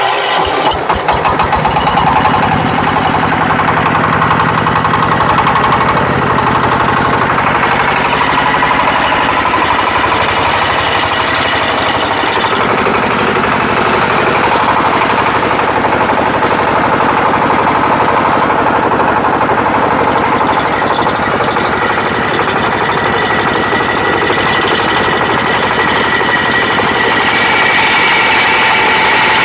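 25-horsepower Changchai diesel engine just started with its key starter, firing unevenly for the first couple of seconds, then settling into steady running. The higher part of its sound drops away for several seconds midway, then returns.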